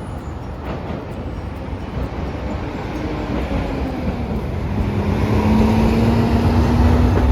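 Hiroshima Electric Railway streetcar approaching: a low rumble growing louder, with a steady electric motor whine coming in about halfway through.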